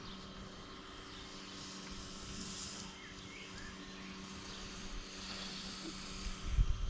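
Outdoor background: a steady low hum, with faint short bird chirps. There are a few low thumps on the microphone near the end.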